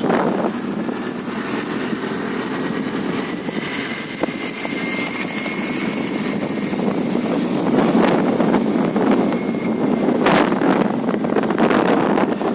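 Honda Dio scooter on the move, its engine and road noise buried in steady wind rush on the microphone. A faint steady high whine runs through the middle, and there is one sharp knock about ten seconds in.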